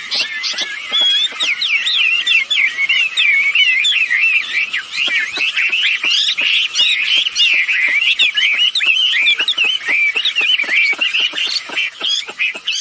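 Wambi birds calling in a rapid, unbroken twittering chatter of quick wavering notes, with short clicking notes mixed in throughout.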